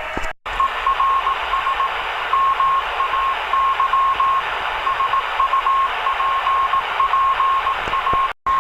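Morse code (CW) signal on the 17-meter amateur band heard through an HF receiver: a single beep tone keyed rapidly in dots and dashes over a steady hiss of band noise. The audio cuts out for a moment just after the start and again near the end.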